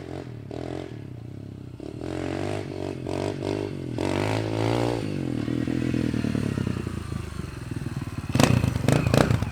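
Dirt bike engine running and revving, its pitch rising and falling and growing louder, with a few clattering knocks near the end.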